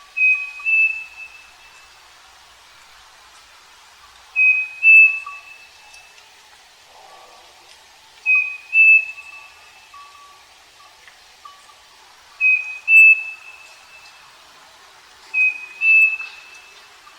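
Striped cuckoo (saci) singing: five clear two-note whistled phrases about four seconds apart, the second note slightly higher and longer than the first.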